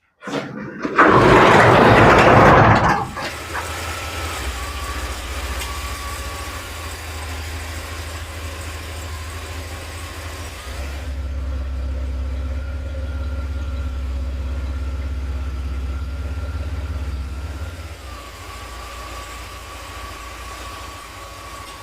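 A vehicle engine starts with a loud burst about a second in, then runs steadily at idle. It gets somewhat louder about halfway through and drops back a little near the end.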